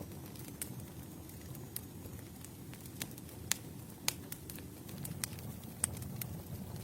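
Wood fire burning: a steady low rumble of the flames with irregular sharp crackles and pops, a few louder snaps about halfway through and near the end.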